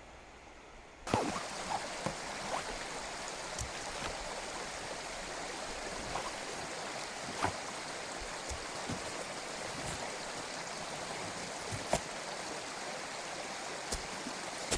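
Mountain stream rushing over rocks, a steady even water noise that starts abruptly about a second in, with occasional sharp ticks.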